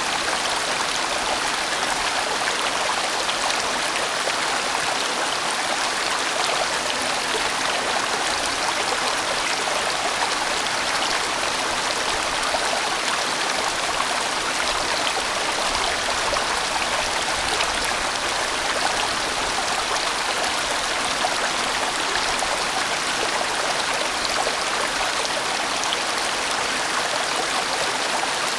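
A large valley stream rushing steadily over rocks, a full, even sound of flowing water.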